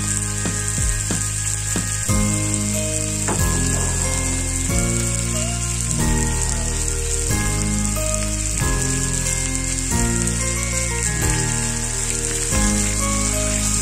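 Chicken pieces and sliced onion frying in a nonstick wok, a steady sizzle, with a wooden spatula stirring them near the end. Background music with low notes that change every second or so plays over it.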